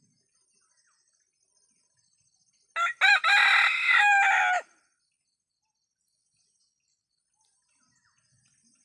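Ayam kampung (Indonesian village chicken) rooster crowing once, about three seconds in: a short opening note, a brief break, then a long held call of about a second and a half.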